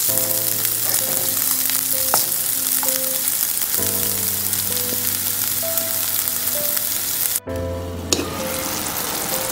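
Sliced onions and garlic-ginger paste sizzling in hot oil in a frying pan, stirred with a wooden spatula, under soft background music of held notes. About three quarters of the way in, the sizzling drops out for a moment and comes back.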